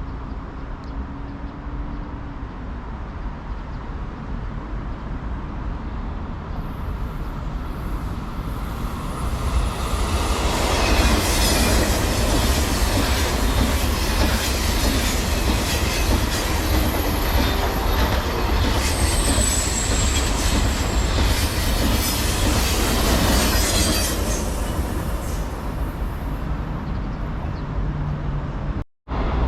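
A train running past on the rails. The rumble builds over the first ten seconds, then stays loud with wheel clatter and a brief high wheel squeal, eases off, and cuts off abruptly just before the end.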